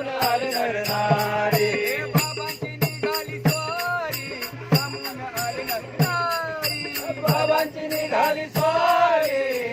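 Marathi devotional bhajan to Sai Baba: voices singing a melody over percussion that keeps a steady beat of about three strokes a second.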